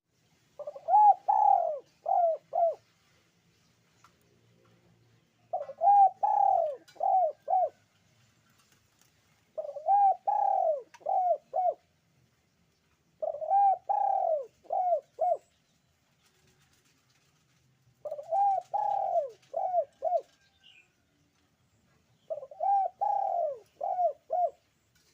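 Puter pelung dove cooing in six phrases about four seconds apart. Each phrase is a longer arching coo followed by three or four shorter ones.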